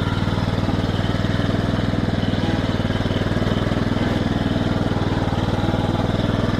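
Small engine of a ride-on garden tractor running steadily at an even throttle while it drives slowly.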